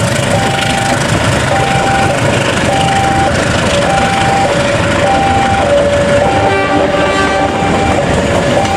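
KAI passenger train carriages running past on the track, with a level crossing's electronic warning alarm alternating between a high and a lower tone about every half second.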